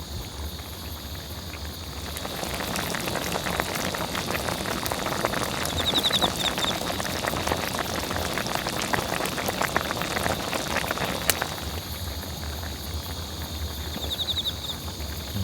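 A pot boiling, a dense bubbling crackle that swells after a couple of seconds and dies down again near the end. Crickets trill steadily in the background.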